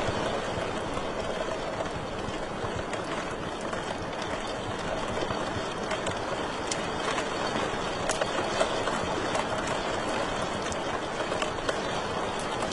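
Wood fire crackling in a fireplace: a steady hiss with scattered sharp pops, several louder ones in the second half.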